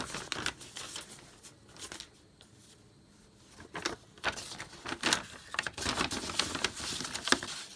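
Old paper sheets rustling and crackling as they are handled and unfolded. There is a short spell at the start and a longer, louder one from about halfway in.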